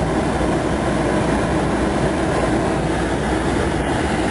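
Steady rush of a 1998 Chevy C1500's cab heater blower running on high, with the truck's 5.7-litre V8 idling underneath; the air is not yet warm.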